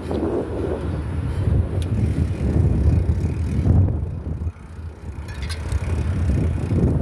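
Wind buffeting the microphone on a moving bicycle, a loud ragged low rumble mixed with the bike's rolling noise. It dips briefly a little past halfway, with a few faint clicks.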